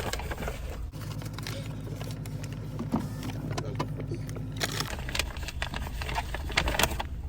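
Car engine idling, heard from inside the cabin: a steady low hum that shifts in tone about a second in and again near five seconds, with scattered clicks and rustles.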